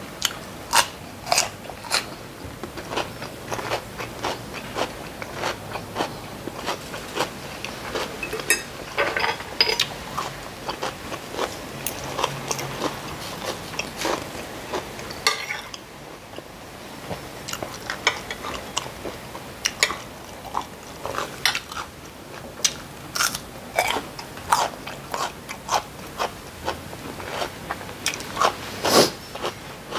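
Close-miked biting and chewing of crisp raw cucumber and food: a long run of sharp, wet crunches, sometimes several a second, with a quieter stretch about halfway through and one loud crunch near the end.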